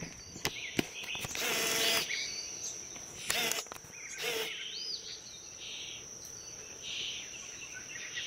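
A few short, faint bird chirps over a quiet outdoor background with a thin, steady high-pitched insect-like drone, broken twice early on by brief rustling noises.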